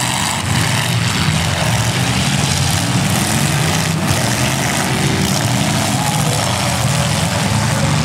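Demolition derby car engines running loud and steady, several at once, with a low drone under a dense rasping noise.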